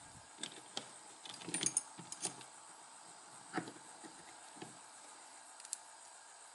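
Light, irregular clicks and taps of small metal lighter parts and tools being handled, a scattered handful of them over a few seconds.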